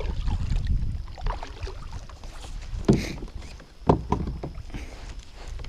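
Gear knocking and handling noise aboard a fishing kayak, with two sharp knocks about three and four seconds in over a low, steady rumble.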